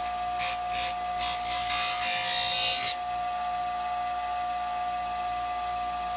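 Bench grinder motor running with a steady whine while a metal letter opener blade is touched to the wheel in a few short contacts, then held on for nearly two seconds of grinding. The grinding stops about three seconds in, leaving only the running motor.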